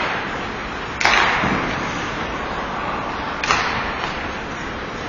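Hockey puck struck twice, two sharp cracks about two and a half seconds apart that echo through the rink, over a steady haze of rink noise.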